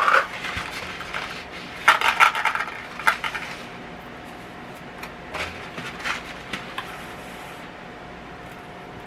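Dry spaghetti being broken and handled into a pot: sharp snaps and light clatters in quick clusters over the first few seconds, then a few scattered clicks.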